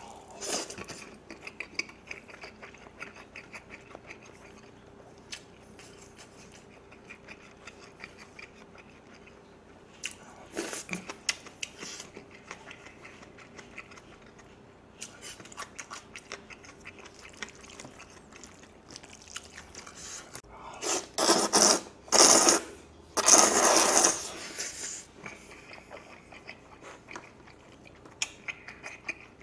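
Close-miked chewing of jjajangmyeon noodles and fried egg, with wet mouth clicks throughout. About two-thirds of the way in come three loud bursts of slurping.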